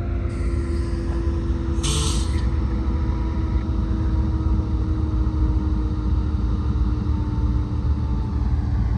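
Idling diesel locomotives of a stopped freight train, a steady low rumble with a constant engine hum, and a short burst of air hissing about two seconds in.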